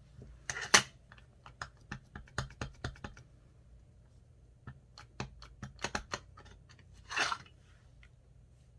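Series of light taps and clicks as an ink pad is dabbed onto a cling stamp, in a few quick clusters, with a short rustling swish near the end.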